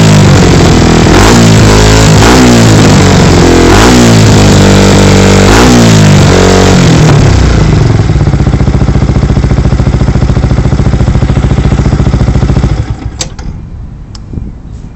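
Yamaha YZF-R125's 125 cc single-cylinder four-stroke engine through a Termignoni exhaust, revved repeatedly about once a second, then settling to a steady idle before being switched off about 13 seconds in. A couple of faint clicks follow the shutdown.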